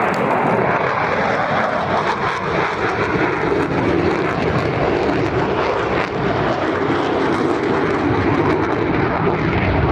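Military aircraft engine running loud and steady during an air-show flypast, cutting off abruptly at the end.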